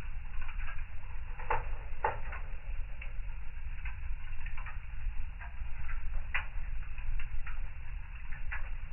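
Wood fire in a fireplace crackling: irregular small pops and snaps, a few of them louder, over a low steady rumble.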